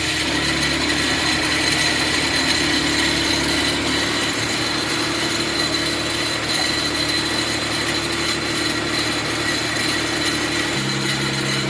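Mitsubishi FTO's 6A12 V6 engine running on one of its first starts, with a steady high-pitched whine from a bearing in the belt drive, which the builders suspect is the tensioner or alternator bearing. The engine note shifts near the end.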